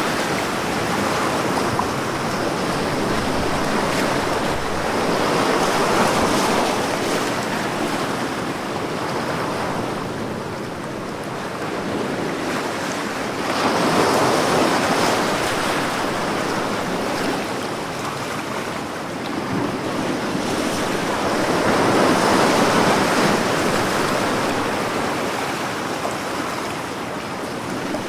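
Ocean waves breaking on a beach, the surf swelling and easing in slow surges, about one big wave every eight seconds.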